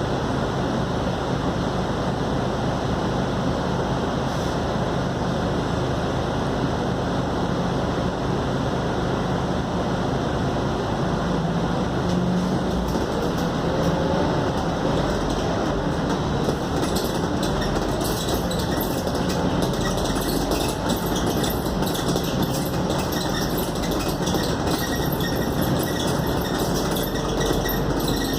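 A Scania K280UD double-decker bus on the move, heard from inside: its diesel engine runs steadily under road noise, with a brief rise in engine note about twelve seconds in. From about halfway through, frequent small clicks and rattles join in.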